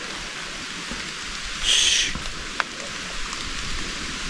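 Light rain falling on dense rainforest canopy: a steady hiss with an occasional drip. A brief louder rush of noise comes about two seconds in.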